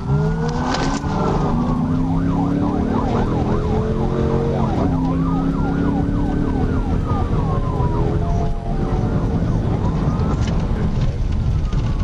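Police siren alternating between a slow wail and a fast yelp, over the pursuing patrol car's engine accelerating hard, its pitch climbing and dropping once at a gear change about five seconds in, with heavy road rumble.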